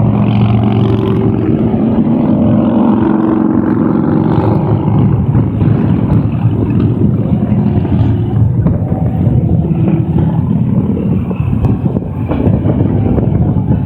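A procession of motorcycles riding past on a highway, many engines running together with road noise. One engine's steady tone stands out over the first few seconds.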